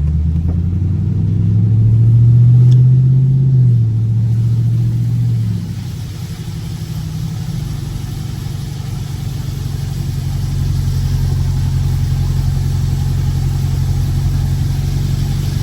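Dodge Scat Pack's 6.4-litre HEMI V8 pulling under acceleration, its note climbing for a few seconds, then dropping back about four to five seconds in to a steadier run that slowly builds again. Tyre hiss from the wet road grows in the second half.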